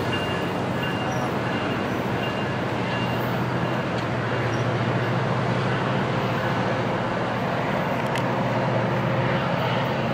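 Metrolink commuter train pulling away, heard as a steady low diesel-locomotive drone over the rumble of the train on the rails.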